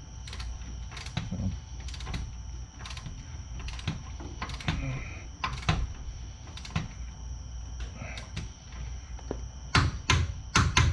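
Hand ratchet wrench clicking in short strokes, roughly one stroke a second, as the caliper bracket bolts are run in. A louder clatter of metal tool knocks comes near the end.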